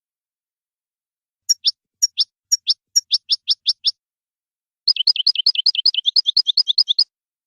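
European goldfinch singing: a series of sharp, high rising notes that quicken as they go, then after a short pause a fast trill of about eight notes a second.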